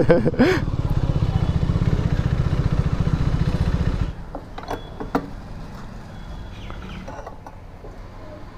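Modified KTM RC 390's single-cylinder engine running loud with a fast, even pulsing beat, then dropping to a much quieter running note about four seconds in.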